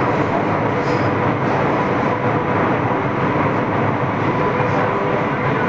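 MTR M-Train metro train running, a steady rumble with a thin steady whine held over it.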